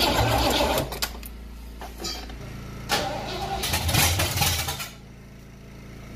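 A vehicle engine being started and run in two loud bursts, the first lasting about a second and the second from about three seconds in, before dropping to a low steady hum a little before five seconds.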